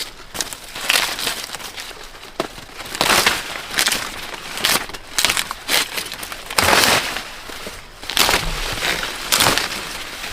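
Irregular rustling and crackling of dry corn plants being handled, coming in a string of short, uneven bursts.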